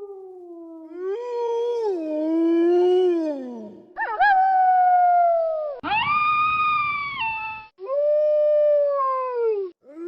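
Wolves howling: about five long howls in succession, each sliding down in pitch toward its end.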